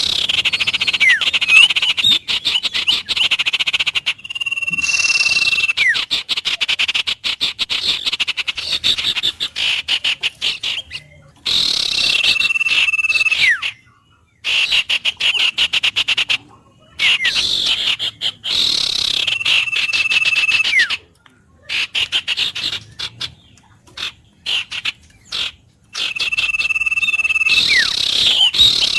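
Wild birdsong over a dense, rapid trilling or croaking chorus: a held whistled note that ends in a falling glide comes back about every seven seconds, while the fast pulsing chorus breaks off now and then in short gaps.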